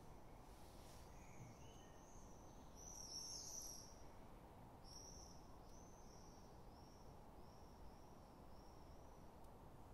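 Near silence with faint, high bird chirps repeating about once a second, a little louder about three seconds in.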